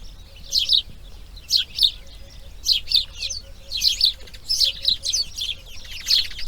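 Birds chirping: short clusters of high, quick chirps, often in pairs, repeating roughly once a second over a faint low rumble.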